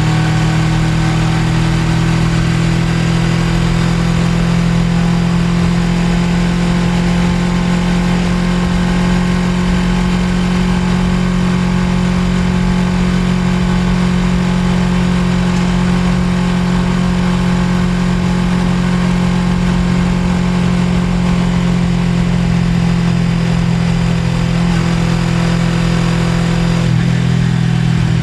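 Suzuki GSX250R's parallel-twin engine running at a steady pace while riding, with rough wind and road noise underneath; the engine note shifts slightly near the end.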